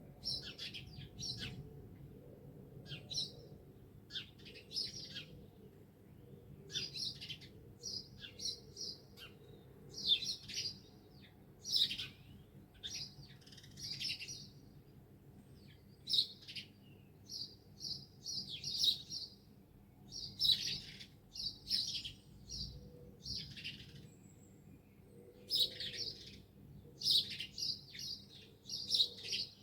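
Songbirds chirping and singing in short, varied phrases, one every second or two.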